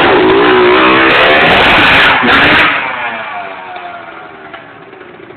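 Honda CR125 two-stroke single-cylinder motocross bike revving hard close by and then pulling away: very loud for the first two and a half seconds, after which the engine note falls in pitch and fades.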